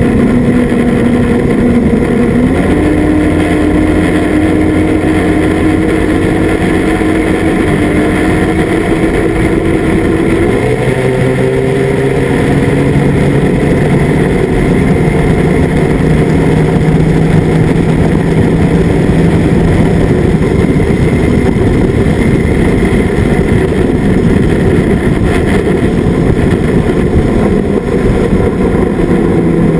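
Outboard motor running steadily under way, its engine speed stepping up a few times in the first ten seconds or so, then holding, and starting to drop near the end.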